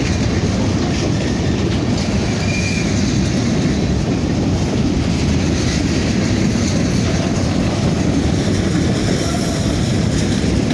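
Heavy grain train of covered hopper cars rolling past close by: a steady, unbroken noise of steel wheels running on the rails.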